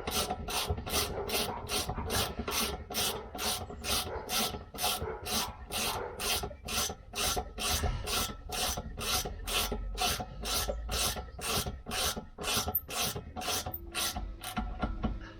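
Hand ratchet spanner tightening the rear shock absorber's lower bolt, its pawl rasping on each return stroke at an even pace of about two and a half strokes a second. The strokes stop shortly before the end.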